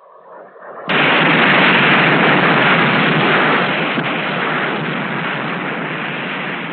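Explosion of an atomic bomb's air burst: a sudden loud blast about a second in, then a long dense rush of noise that slowly dies away.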